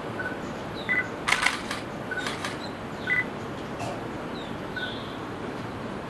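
Small birds calling: short, flat whistled notes, several of them scattered over a steady outdoor hiss. A few sharp clicks come between about one and two and a half seconds in.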